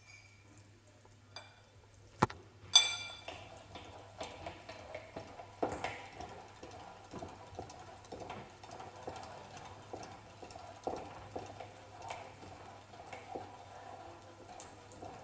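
Metal parts of a manual meat grinder being handled: a sharp click and then a ringing metal clink a couple of seconds in, followed by a run of light, uneven clicks and knocks.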